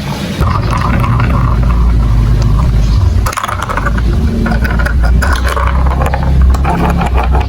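Marbles rolling and clattering down a plastic building-block marble run: a steady low rumble of rolling balls with many small clicks and rattles as they hit the track pieces. The sound dips for a moment about three seconds in, then carries on.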